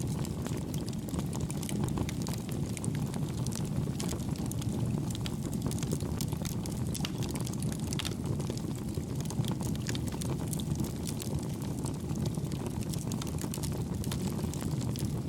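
Wood campfire burning: a steady low rumble with frequent small crackles and pops scattered throughout.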